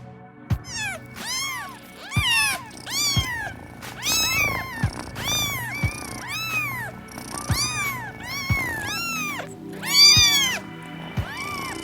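A cat meowing over and over, about a dozen short calls, each rising and then falling in pitch, with background music underneath.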